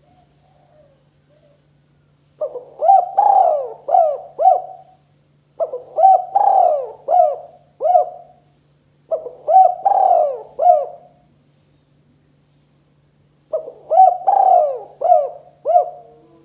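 Spotted dove (tekukur) cooing: four phrases of about five coo notes each, a second or two apart. A faint steady low hum runs underneath.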